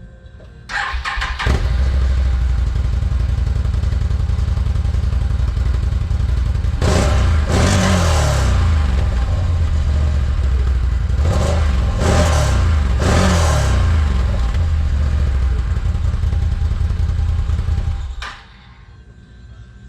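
Can-Am Renegade 1000 XMR ATV's V-twin engine, fitted with an aftermarket MBRP exhaust, started about a second in, idling, blipped up three times, then shut off near the end.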